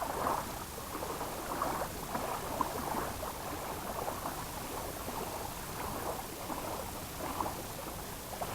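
Small waves lapping and splashing irregularly against the shore.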